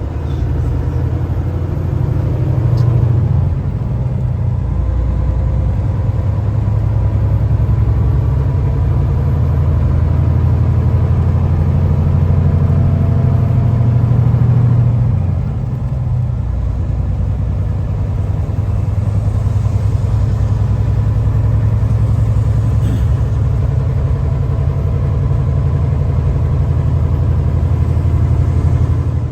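Heavy semi truck driving, heard from inside the cab: a steady, loud low rumble of engine and road noise, easing off slightly about halfway through.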